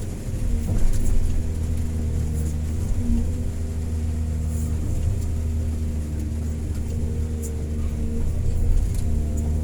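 Excavator's diesel engine running steadily, a low, even drone.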